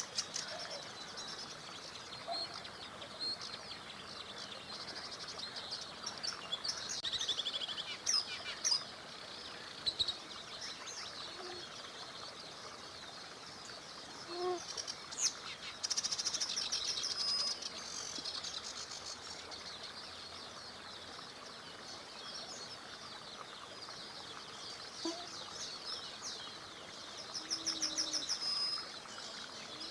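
Several songbirds chirping and singing, with rapid trills now and then, over the steady rush of a small river.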